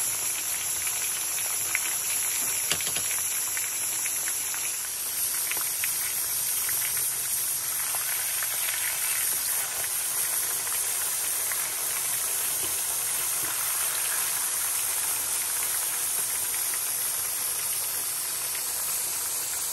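Marinated chicken pieces frying in hot oil in a steel kadai: a steady sizzle with scattered crackles.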